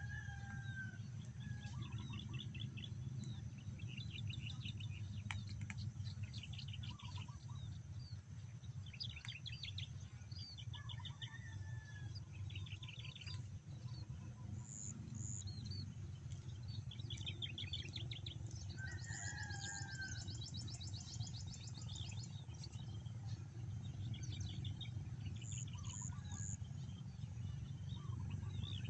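Several birds calling: scattered chirps, short rising and falling whistles and rapid trills, over a steady low rumble.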